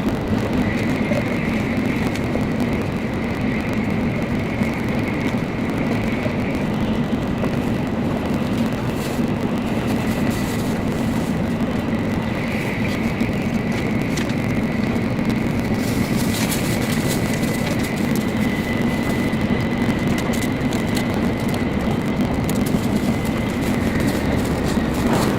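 Steady running noise of a Nozomi Shinkansen high-speed train, heard from inside the passenger cabin: an even low rumble with a thin high whine over it, and a few faint clicks around the middle.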